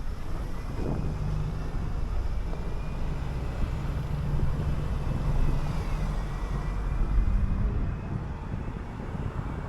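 City bus engine running as the bus drives along, a steady low hum with a faint high whine that dips and recovers about six seconds in.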